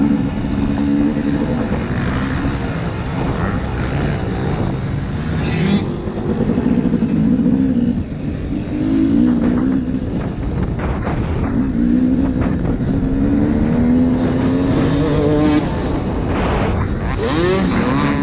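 2012 KTM 250 SX two-stroke dirt bike engine being ridden hard, its pitch repeatedly rising and falling as the throttle is opened and closed.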